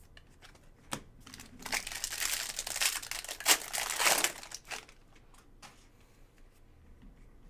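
Trading card pack wrapper being torn open and crinkled by hand: a few sharp clicks, then about three seconds of dense crackling that dies away before the end.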